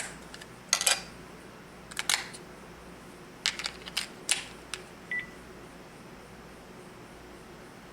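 Sharp plastic clicks and clatter from a Panasonic cordless phone handset and its batteries being handled, then one short high beep from the handset a little after five seconds.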